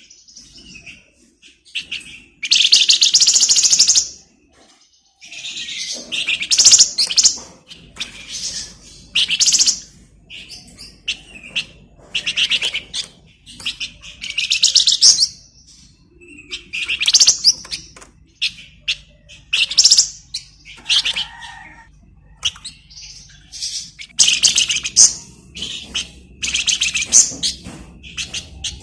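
A small songbird of the kind Indonesian bird keepers call 'flamboyan' singing gacor: fast, buzzy, high-pitched trills of about a second each, repeated every couple of seconds with short chirps between them.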